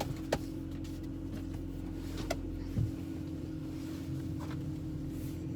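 Vehicle engine running steadily with a low hum, a few sharp clicks, and a low thump about three seconds in.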